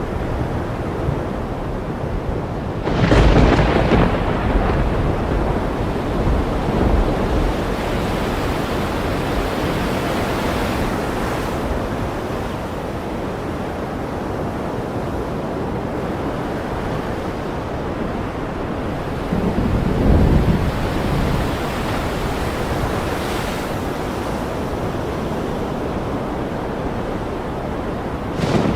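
Thunderstorm over ocean surf: a steady wash of waves, with a loud thunder crack about three seconds in and a deeper rumble of thunder about twenty seconds in.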